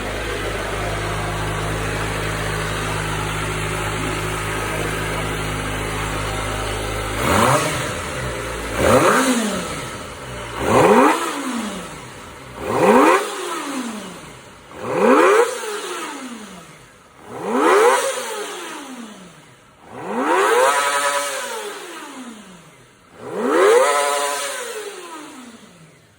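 Kawasaki ZX-25R's 250 cc inline-four on its stock exhaust, idling steadily and then revved about eight times in a row, each rev rising sharply in pitch and falling back, the last few held longer. The engine dies away near the end.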